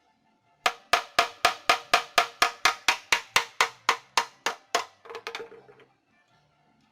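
A hammer striking metal in a steady run of about four ringing blows a second, then a quicker flurry of lighter taps that stops suddenly.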